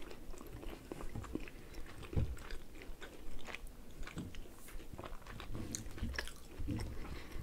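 Pizza being chewed close to the microphone: soft, irregular chewing with small crunches of crust.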